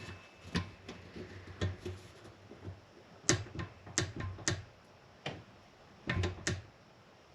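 Scattered sharp metallic clicks and taps from a hand wrench being worked on an exhaust fastener as it is tightened, about eight in all and unevenly spaced, several of them in pairs.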